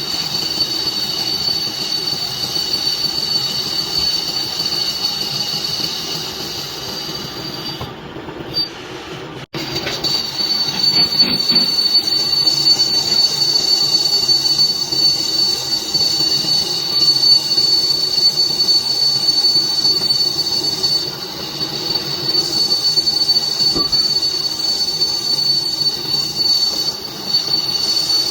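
Metal lathe turning a hydraulic jack piston, with a steady high-pitched squeal from the cut over machine noise; the sound breaks off briefly about a third of the way in and resumes.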